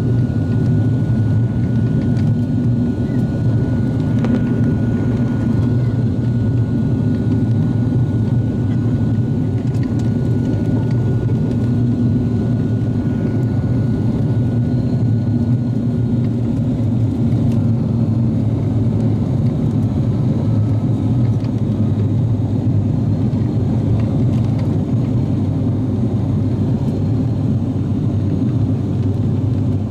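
Cabin drone of an ATR 42-600's twin turboprop engines and propellers during the climb after takeoff: a loud, steady low hum with no breaks.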